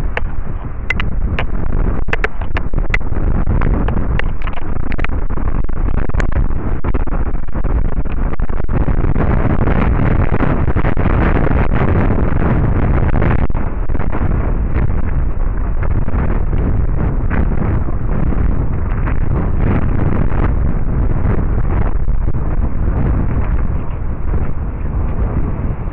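Strong wind buffeting the microphone: a loud, constant low rumble, with sharp pops in the first few seconds.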